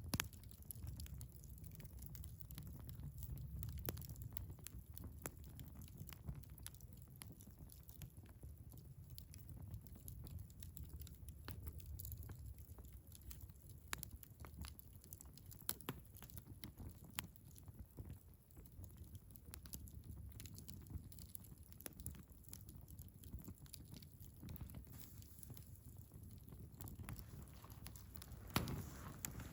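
Firewood burning in a Picogrill 398 fire pit, crackling with scattered sharp pops over a low steady rumble. A few louder pops come close together near the end.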